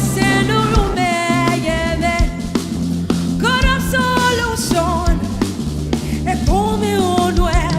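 Live praise and worship music: a voice singing long, gliding phrases over a band with bass, drum kit and guitar.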